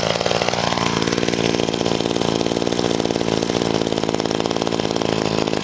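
Two-stroke engine of a Wild Badger 4-in-1 gas multitool running; its speed rises about a second in and then holds steady. The tool is vibrating too much, which the owner suspects comes from an attachment not fitted right.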